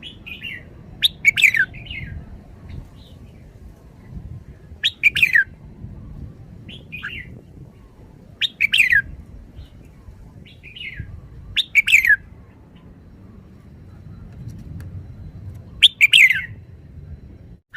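Red-whiskered bulbul singing: five short phrases of quick, downward-sweeping whistled notes, one about every three and a half seconds, with softer single calls in between.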